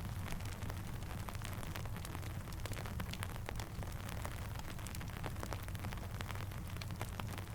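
Rain ambience mixed with a crackling campfire: a steady hiss with a low rumble underneath, dotted with frequent sharp pops and ticks.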